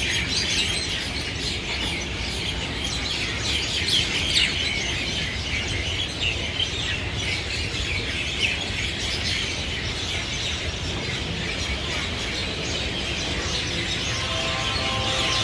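Many small birds chirping at once, a dense, continuous chatter of short calls over a steady low hum. A few brief steady tones come in near the end.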